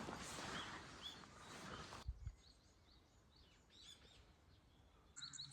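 Faint birds chirping in short, scattered calls over a soft hiss of outdoor background noise; the hiss drops away suddenly about two seconds in, leaving quieter chirps.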